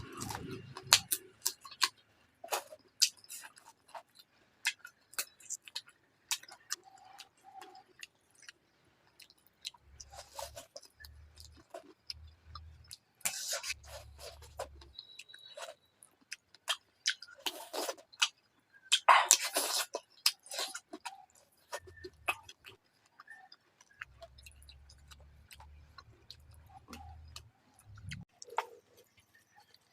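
Close-miked chewing and eating of a curry and rice meal: irregular wet clicks and smacks, with a few louder, longer smacking bursts around the middle.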